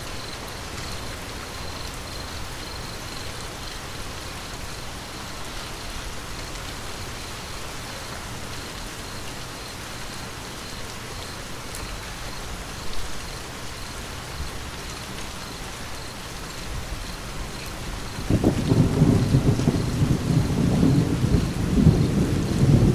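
Steady rain falling, with a long, low rumble of thunder starting about eighteen seconds in and growing louder.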